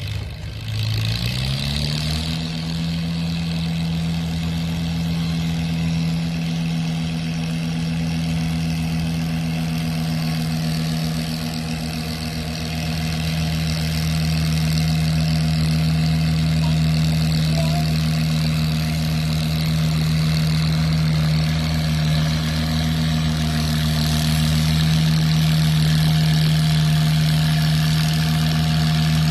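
Antique tractor engine revving up over the first two seconds, then running steadily at high speed.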